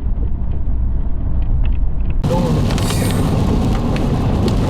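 Severe-storm wind buffeting the microphone in a dense, steady low rumble, with scattered sharp ticks of rain and hail striking. About two seconds in, the sound turns brighter and hissier.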